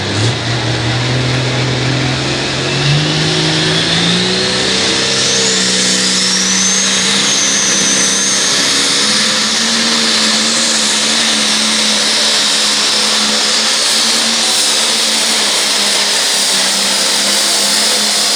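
Turbocharged diesel engine of a limited pro stock pulling tractor running flat out under load as it drags the weight-transfer sled. Its pitch climbs over the first few seconds and then holds steady, with a high turbo whistle that rises and stays above it.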